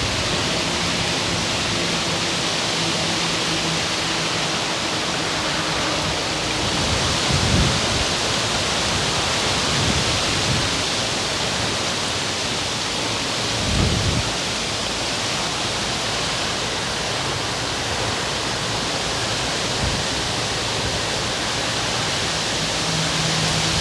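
Wind blowing through the leafy crowns of Chinese fringe trees, a steady rustling hiss, with a few low gusts buffeting the microphone about 7, 10 and 14 seconds in.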